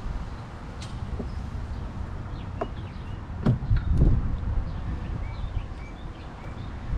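Small birds chirping in short calls over a low wind rumble, with a couple of dull thumps about three and a half and four seconds in.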